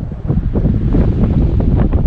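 Strong wind buffeting the microphone: a loud, low, irregular rumble that gusts harder about half a second in.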